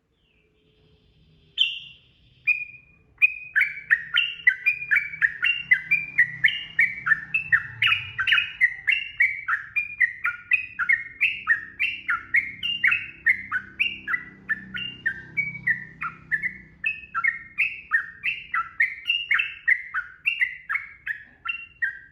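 Yellow-vented bulbul (trucukan) singing a long, unbroken run of short, bubbly, sweeping notes, about two to three a second, after two opening calls.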